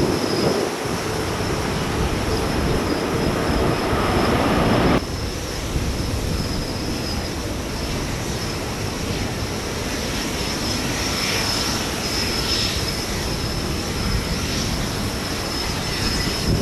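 Jet airliner engines running, with a steady roar mixed with wind; the sound drops abruptly about five seconds in.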